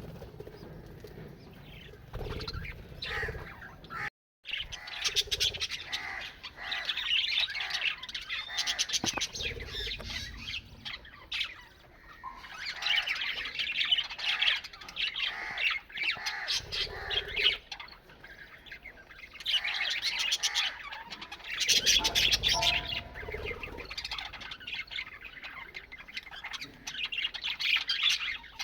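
Parrots squawking and chattering in loud, harsh overlapping bursts, with a brief break in the sound about four seconds in.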